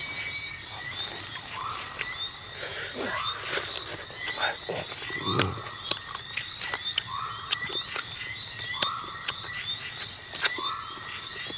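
Animal calls outdoors: a short call repeating about once a second over steady high-pitched tones, with a few falling squawks and scattered clicks.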